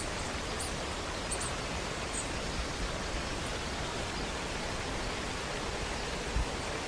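Waterfall: a steady, even rush of falling water, with a few faint high chirps in the first couple of seconds.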